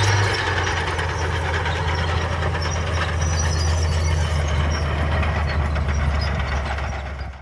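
Heavy diesel engine of earthmoving machinery running steadily, its note dropping slightly just after the start, then fading out near the end.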